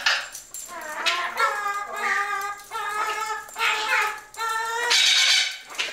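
A parrot vocalising in a high, singsong, speech-like voice: short pitched phrases that glide up and down, with a harsher, noisier squawk about five seconds in.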